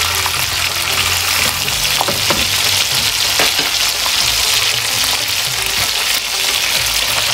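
Chicken pieces frying in hot oil in a karahi: a steady sizzling hiss, with a few sharp crackles about two and three and a half seconds in.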